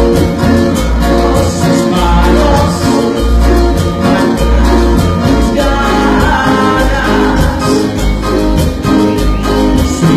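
A cumbia band playing live, with a steady, repeating bass beat under pitched instrument lines.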